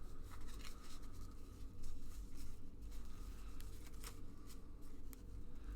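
1990-91 SkyBox basketball cards being flipped through and slid off a stack by hand: a run of small, irregular clicks and rustles over a low steady hum.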